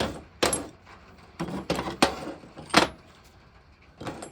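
Several sharp metallic clanks and clatters, irregularly spaced, as metal tools and steel parts are handled and set down on a workshop bench.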